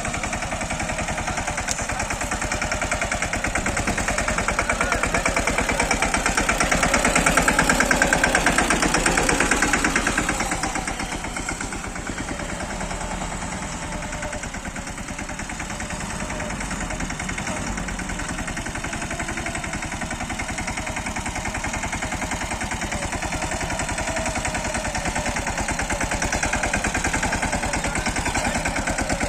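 Mini tractor diesel engine running. It grows louder to a peak about eight seconds in, eases off around eleven seconds, then runs steadily and gradually builds again.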